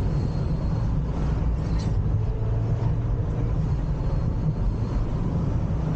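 Ripp-supercharged V6 of a Dodge Challenger running at a steady low drone, with no revving.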